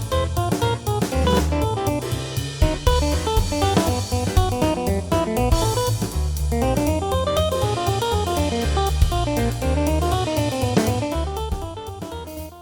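Small jazz combo playing: a guitar picks out fast runs of notes over bass and drum kit with cymbals. The band gets quieter near the end as the tune winds down.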